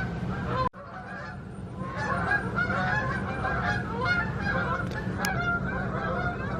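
Flock of geese honking, many overlapping calls at once, with a brief break just under a second in before the honking resumes.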